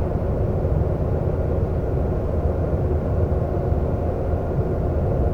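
Seoul subway train running between stations, heard from inside the carriage: a steady low rumble of wheels and motors.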